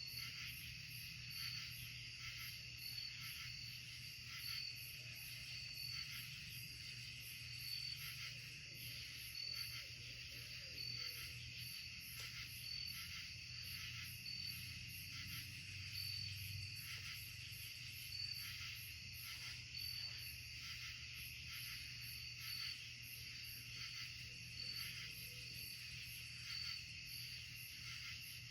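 Chorus of night insects in woodland, trilling and pulsing steadily at several pitches, with one bright pulse repeating about once a second, over a low steady hum.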